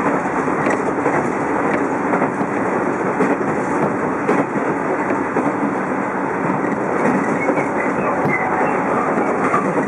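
Running noise of a JR East 211 series electric train heard from inside motor car MoHa 210-2001: steady wheel-on-rail rumble with scattered rail-joint clicks, and a faint wheel squeal near the end.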